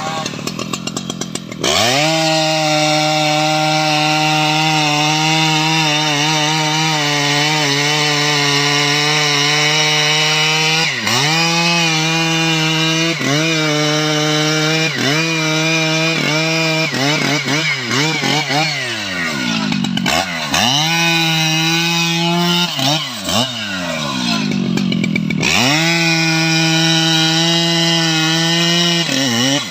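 Stihl MS 881 two-stroke chainsaw cutting into a teak tree at full throttle. Its pitch dips and recovers several times in the middle, then it holds high and steady again until it drops off near the end.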